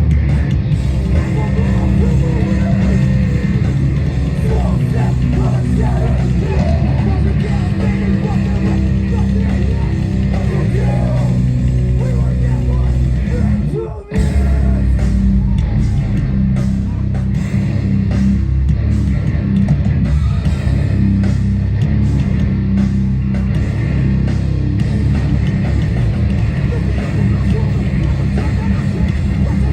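Hardcore band playing live at full volume: distorted guitars, bass and drums, with a brief break in the sound about fourteen seconds in.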